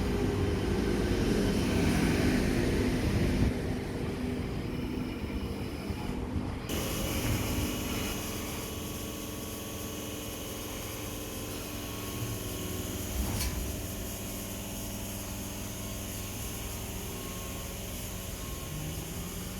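A train running through the station, loud rumbling for the first three and a half seconds, then cutting to a quieter steady hum with faint whining tones.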